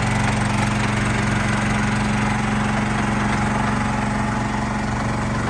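RODA RD380L mini skid steer's 13.5-horsepower gasoline engine running steadily at a constant speed, very smooth.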